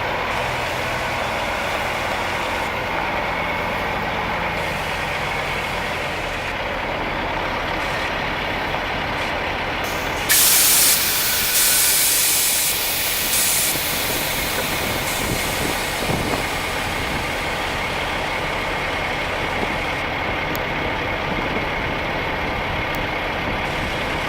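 Diesel truck tractor engine idling steadily. About ten seconds in, a loud burst of air hiss from the truck's air brake system, easing off in steps over several seconds.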